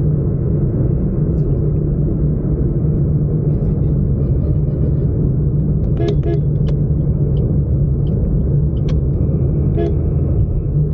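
Steady loud wind and road rumble on a helmet-mounted microphone while riding a motorcycle in traffic. Short horn toots from other vehicles come twice about six seconds in and once near the end.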